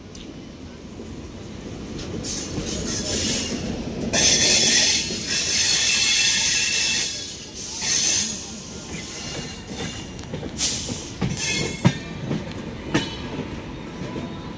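Passenger train running along the track: steady wheel-and-rail rumble with high-pitched rushing noise that swells and fades several times, and a few sharp clicks near the end.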